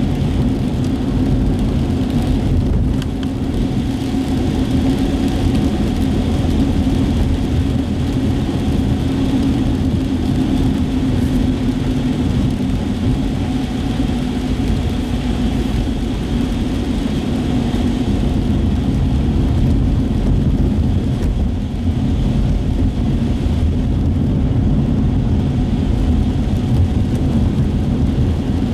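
Steady road noise heard from inside a moving car: engine and tyre rumble on wet pavement.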